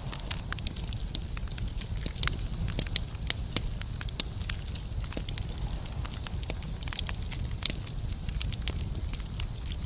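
Wood fire burning in a fireplace: a steady low rumble of the flames with many irregular sharp crackles and pops of the logs.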